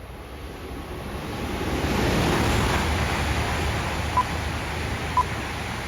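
A coupled Shinkansen train, an E5 series Hayabusa joined to an E6 series Komachi, running past with a rushing noise that builds to a peak about two seconds in and then slowly eases off. From about four seconds in, short high beeps sound once a second over it.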